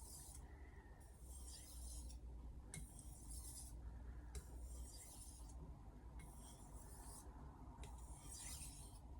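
Steel knife blade being drawn across a wet whetstone in faint, evenly paced strokes, about six scraping swishes. These are the light deburring passes at the end of sharpening, taking the burr off the edge.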